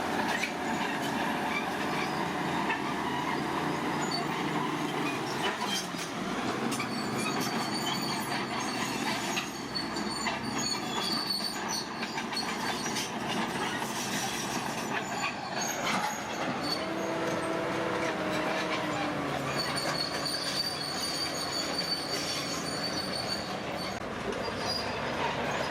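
Heavy earthmoving machinery working, most like a bulldozer: steady engine noise with high metallic squeals and clanking from steel crawler tracks. A short pitched hum rises out of the noise about two-thirds of the way through.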